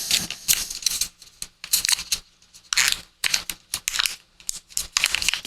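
Irregular clicks, taps and rustles from a charging cord and phone dock being handled.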